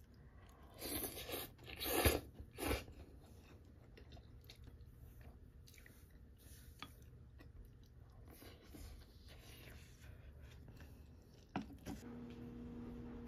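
Close-up eating sounds: loud crunchy chewing and biting for a couple of seconds, then softer chewing with a few light clicks of a spoon against the clay pot. A steady low hum starts near the end.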